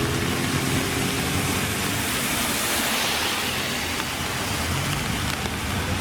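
Classic car passing: its engine note falls away just after the start, a rushing hiss of tyres and air swells about halfway through, and a low engine rumble comes back near the end.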